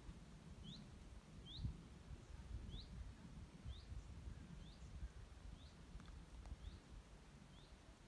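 A small bird repeating a short, high, rising chirp about once a second, eight times, faint over a low rumble.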